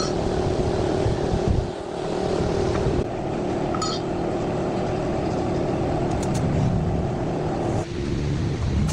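Tractor engine running steadily; its note changes about eight seconds in, the steady mid-pitched hum dropping away as a deeper rumble takes over.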